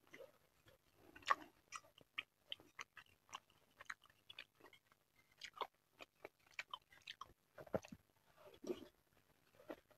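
Close-miked chewing and wet mouth smacks of someone eating mini bakso meatballs in a spicy egg sauce: a steady run of short, soft clicks and smacks, louder about a second in and again near the end as another meatball goes into the mouth.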